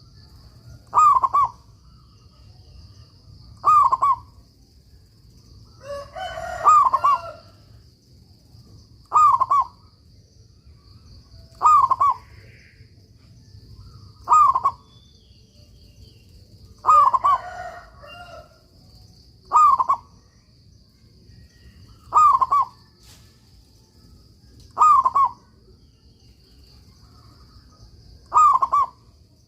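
Zebra dove (perkutut) cooing, short phrases repeated about every two and a half seconds, about eleven in all. A faint steady high-pitched tone runs behind them.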